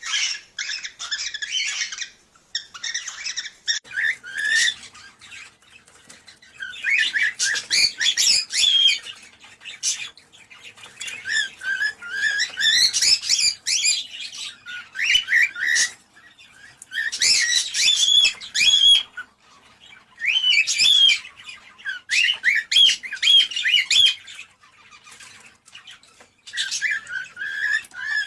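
Cockatiel chirping and warbling in repeated bouts of a second or two, separated by short pauses.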